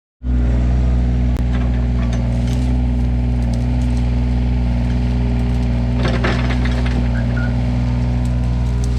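An engine running steadily at constant speed. About six seconds in there is a brief, noisy burst of sound over it.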